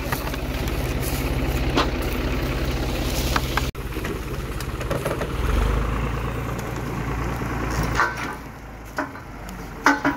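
New Holland TD65 tractor's diesel engine running steadily at a low idle. It cuts off for an instant about a third of the way in. It drops quieter near the end, where a few sharp knocks are heard.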